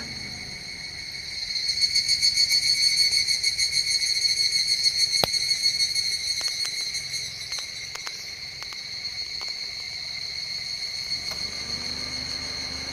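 Insects singing a steady high-pitched trill; about two seconds in it swells into a louder, fast-pulsing call for several seconds, then settles back. A few sharp clicks in the middle.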